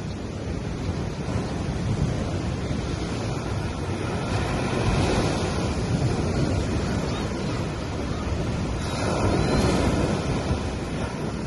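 Gentle sea waves washing onto a sandy beach, a steady surf wash that swells twice, about four seconds in and again near the end.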